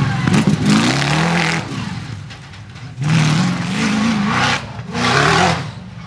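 Off-road competition car's engine revving hard in three surges, its pitch climbing and then dropping each time as it powers through the course.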